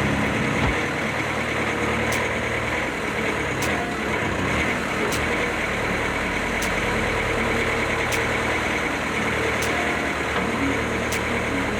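Bobcat S530 skid steer's diesel engine running steadily, with a short high tick repeating about every one and a half seconds. The machine is running again after a new engine and a resealed bucket cylinder.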